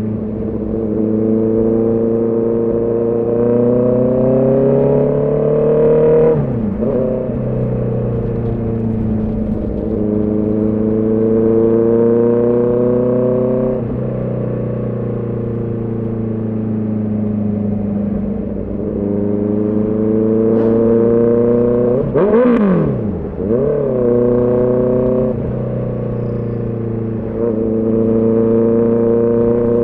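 Honda CB650R's inline-four engine and exhaust under way: the engine note climbs steadily several times as the bike pulls through the gears, with a quick drop and recovery in pitch at each shift. About two-thirds of the way through there is a sharper dip and blip with a brief louder rasp.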